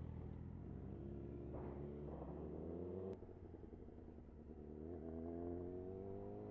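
Superbike engine accelerating. Its pitch climbs for about a second and a half, drops sharply at a gear change about three seconds in, then climbs again in the next gear, over a steady low rumble.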